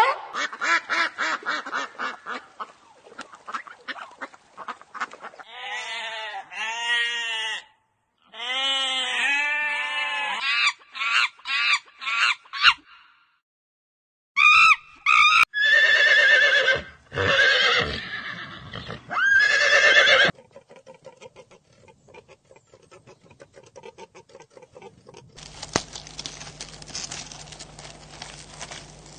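Different farm animals calling one after another, in separate runs of repeated pitched calls. Near the end the calls give way to a faint steady hum and hiss.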